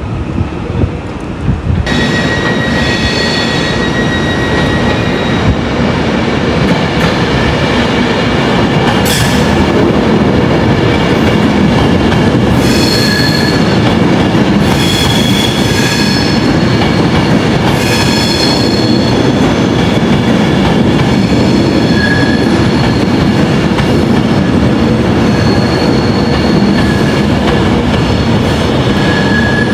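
A train rolling through station track with a steady rumble, its steel wheels squealing in high-pitched whines that come and go on the curves.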